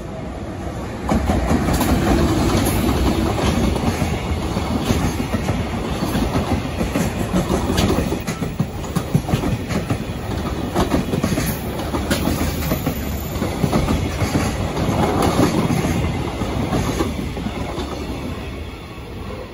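Freight train passing close by, its wheels clattering over the rail joints in a steady rush. The sound comes up sharply about a second in and eases off near the end.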